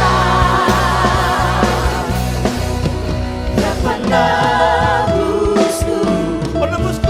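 Church worship music: voices singing with vibrato over a band with a steady bass and drum strokes. A long held note comes in about four seconds in.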